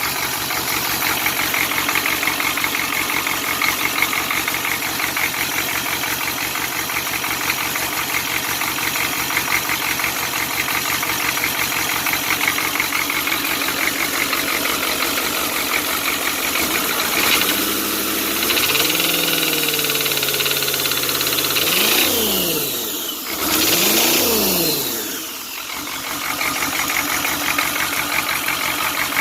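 GM 6.2L V8 diesel running with a rapid, heavy knock. The owner traces the knock to weak or stuck injectors that fire early. Past the middle it is revved up and back down a few times, with two quick blips, then settles back to steady running.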